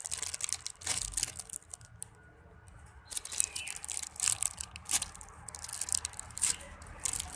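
Irregular crinkling and crackling handling noise with soft clicks as a foam squishy toy is turned over and squeezed in the hands, with a quieter pause about two seconds in.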